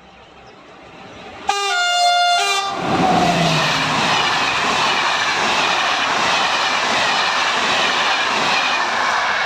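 A Corail passenger train grows louder as it approaches, sounds its horn once for about a second, then passes with loud steady wheel and rail noise.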